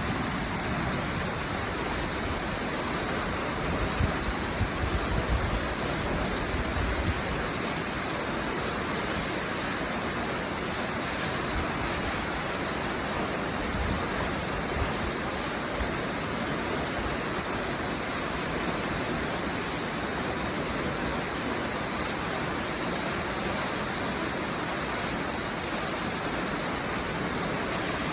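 Rushing water: a steady, even roar of flowing or falling water, with a few low thumps between about four and seven seconds in.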